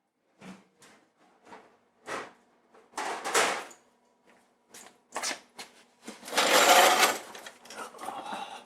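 Hand tools and parts being handled while working on a truck's oil cooler line fittings: scattered clicks and knocks, with two louder scraping, rustling noises about three seconds in and about six seconds in, the second the loudest.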